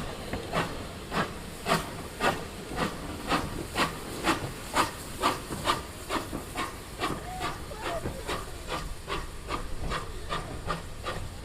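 Steam locomotive working under steam: regular exhaust chuffs, about two a second, louder in the first half and weakening over the last few seconds.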